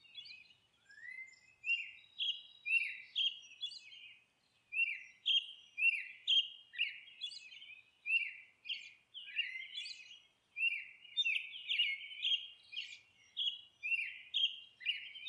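Bird chirping: a steady run of short, downward-sliding chirps, about two a second.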